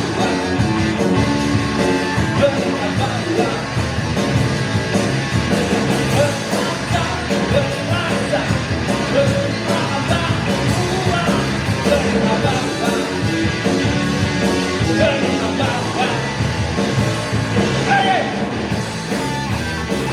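Live band music with a singer's vocal over guitar, bass and drums.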